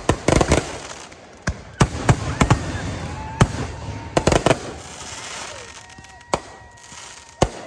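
Fireworks finale of 3-inch aerial shells and 500-gram cakes bursting in sharp bangs, a rapid cluster at the start and then single reports about once a second, with crackle between them. Thin whistling tones, some bending down in pitch, sound over the bursts.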